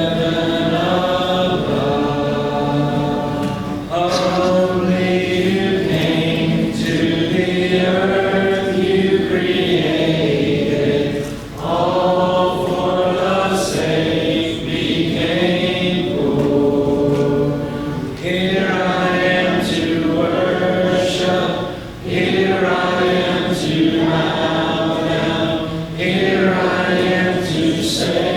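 A church congregation singing a hymn a cappella: many mixed voices in long held phrases, with short breaks between phrases every four to seven seconds.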